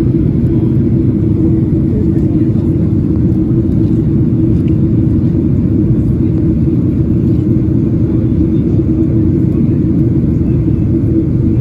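Airliner in flight heard from inside the passenger cabin: a loud, steady rumble of engines and airflow with a constant hum.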